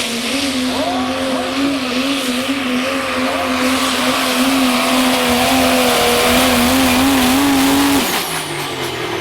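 Diesel pickup truck engine at full throttle pulling a sled: a steady high-revving note that wavers slightly, with strong turbo and exhaust hiss over it. The engine drops off suddenly about eight seconds in as the truck comes off the throttle.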